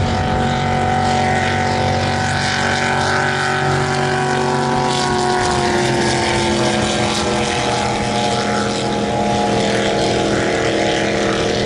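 Drag boat's racing engine running loud and steady, its pitch sinking slowly.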